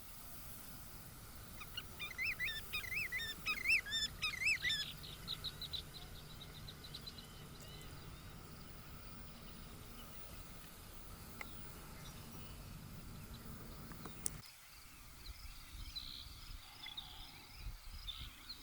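A songbird sings a quick warbling phrase that runs into a fast trill and fades away, over steady marsh ambience. A few faint chirps follow near the end.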